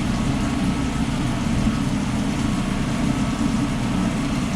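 Steady low engine drone, running at a constant speed with a hiss above it and no change throughout.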